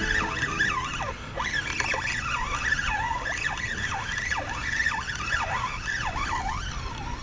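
A flock of gulls calling, many overlapping squealing cries that rise and fall in pitch.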